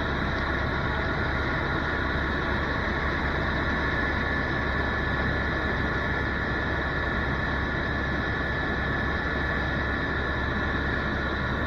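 Tour helicopter in flight: a steady engine and rotor drone with a constant high whine above it, unchanging throughout.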